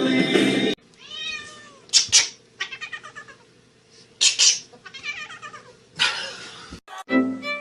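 A cat meowing repeatedly in a string of separate calls, the loudest about two and four seconds in.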